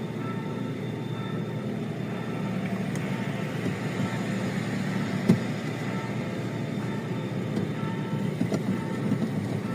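Level-crossing warning signal sounding an alternating two-tone beep over the steady rumble of passing traffic. A sharp knock comes about five seconds in.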